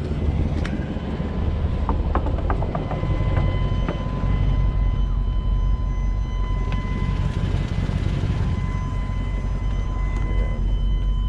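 Tow truck's engine running with a steady low rumble and a faint steady high-pitched whine over it.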